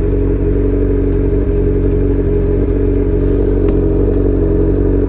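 2003 Yamaha R1's inline-four engine with an aftermarket exhaust running loud and steady under way, its pitch holding level.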